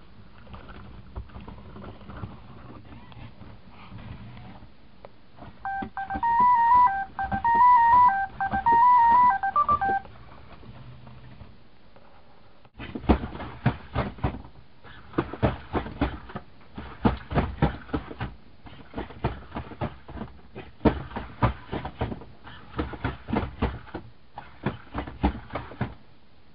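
Sony Aibo ERS-210 robot dog playing a quick run of electronic beeping tones, a short repeating melody lasting about four seconds. After a pause, a long stretch of irregular, rapid clicks and taps follows, several a second, as the robot moves.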